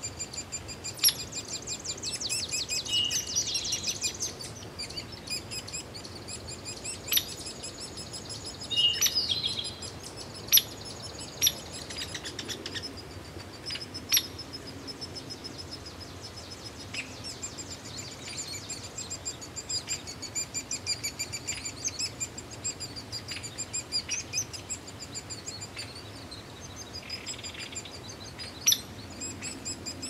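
Wild birds calling and singing: high chirps and rapid trills, thickest near the start and again about nine seconds in, with sharp single call notes every few seconds.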